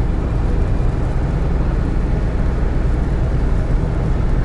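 Steady low drone of a GAZelle Next van on the move, its engine and road noise heard from inside the cab.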